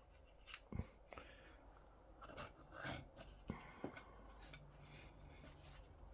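Faint handling noises: a few light clicks and soft rubbing as 3D-printed dock parts are slid onto solid aluminium rods.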